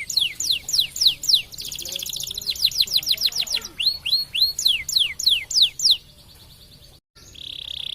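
Domestic canary singing: a run of repeated downward-sweeping whistled notes, broken about two seconds in by a fast rolling trill, then more sweeping notes. The song drops away about six seconds in, cuts out completely for a moment, and comes back near the end as a steady buzzy trill.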